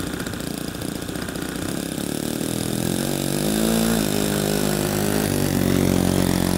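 Saito .62 four-stroke glow engine on an RC model airplane running, its pitch and loudness rising as the throttle is opened about three seconds in, then holding steady.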